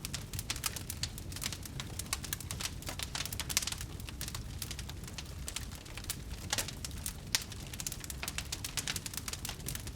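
Wood fire burning, with irregular sharp crackles and pops from the burning wood over a steady low rumble of the flames; a few louder pops stand out, around three and a half, six and a half and seven seconds in.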